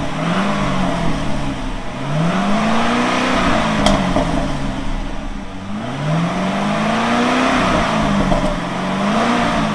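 C6 Corvette's V8 engine being revved over and over, its pitch climbing and dropping in slow swells about every four seconds, with a single sharp click about four seconds in.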